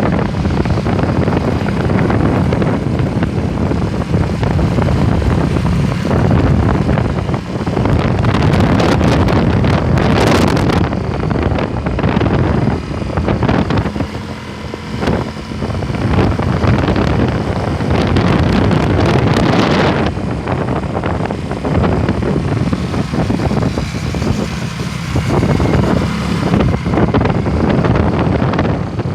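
A vehicle's engine running steadily on the move, with wind buffeting the microphone.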